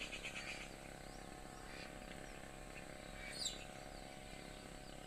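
Faint outdoor garden ambience with a single short, falling bird call about three and a half seconds in.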